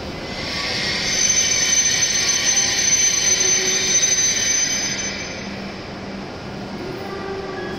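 W7 series Shinkansen train braking to a stop at the platform, giving a high-pitched squeal that swells about a second in and fades after about five seconds as the train halts. A steady low hum remains.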